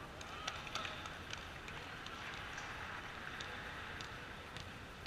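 Volleyball players' footsteps and sharp taps on a hard court floor, scattered irregularly over a faint background murmur, with two louder knocks about half a second and a second in.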